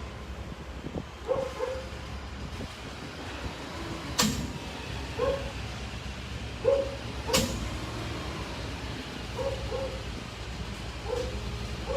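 A heavy engine running steadily with a low hum, while a dog barks in short pairs every second or two. Two sharp knocks stand out, about four and seven seconds in.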